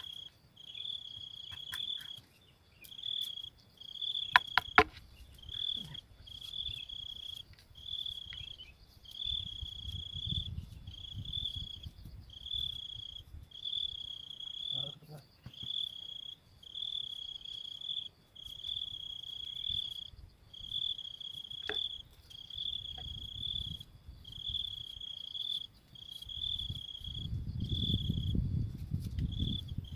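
An insect calling: a high, buzzing trill in pulses of about a second with short breaks, repeating steadily. A few sharp clicks come about four to five seconds in, and low rumbles come and go, strongest near the end.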